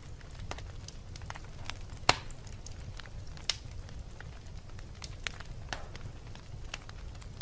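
Fireplace fire burning and crackling: a steady low rumble of flames with scattered sharp pops of burning wood, two louder cracks about two and three and a half seconds in.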